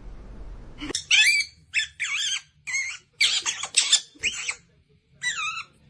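A bird squawking in a run of about eight short, high, wavering calls, starting about a second in.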